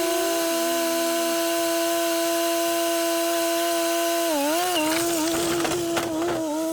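Skid steer engine running at high, steady revs, its pitch dipping and recovering about four seconds in as the machine takes load, with a few knocks near the end.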